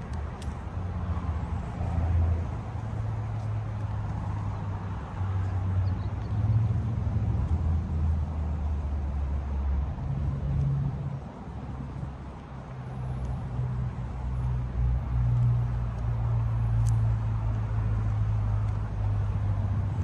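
Low, steady engine rumble of a motor vehicle on a neighborhood street, its pitch shifting in small steps and swelling and easing in loudness.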